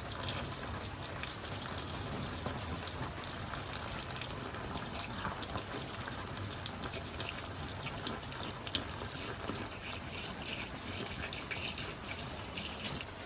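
RV antifreeze being poured from a jug into a camper sink drain, a steady gush and trickle of liquid, over a light patter of rain on the camper.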